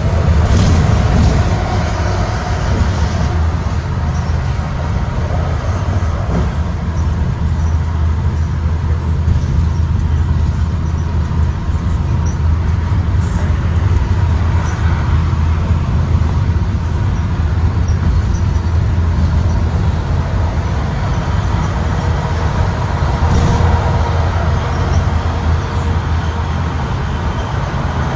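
2023 Blue Bird Vision school bus on the move, heard from on board: a steady low drivetrain and road rumble with faint scattered rattles and squeaks from the body.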